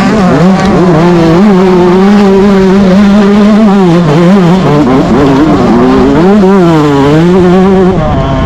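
Yamaha YZ125 two-stroke motocross engine running hard under full throttle. Its pitch holds high, then drops and climbs back several times through throttle and gear changes, most clearly about four seconds in and again between six and seven seconds, with a low rumble of wind underneath.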